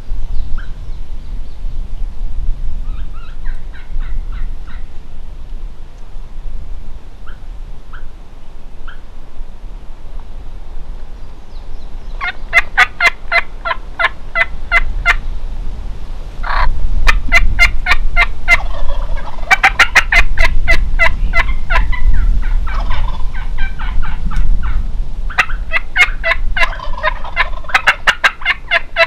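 Wild turkey gobblers gobbling over and over, faint at first and then loud and close from about halfway through, each gobble a quick rattling run of notes.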